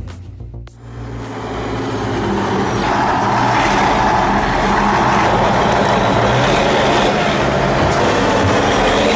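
A vehicle engine running hard under load: it builds up over the first two seconds or so, then holds loud and steady.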